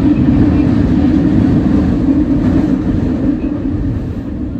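Kita-Osaka Kyuko 9000 series electric train running on the Midosuji Line, a steady loud rumble of wheels and running gear. It eases off slightly near the end.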